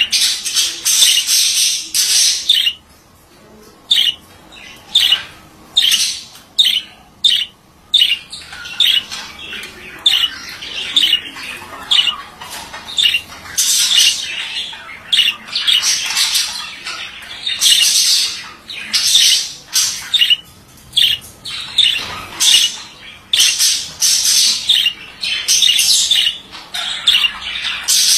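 Male budgerigar chattering and warbling in a rapid run of chirps and squawks, with a brief pause a few seconds in.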